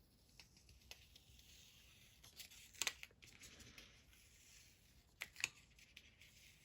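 Faint handling of planner paper and stickers: soft rustling with a few sharp ticks, one about three seconds in and a quick pair a little past five seconds.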